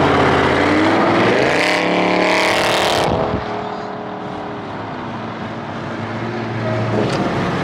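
Car engine accelerating hard, the revs climbing for about three seconds, then dropping sharply as it shifts gear and running steadier before starting to climb again near the end.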